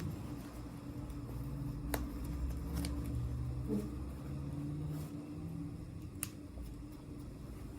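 Three light clicks over a steady low hum, typical of small plastic toy pieces and packaging being handled during an unboxing.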